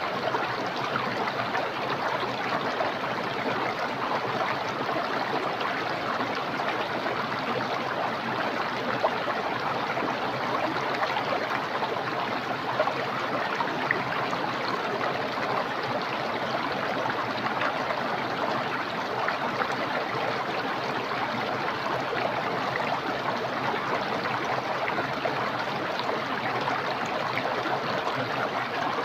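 Small, clear, fast-flowing stream rushing and splashing over its bed in a steady, unbroken flow.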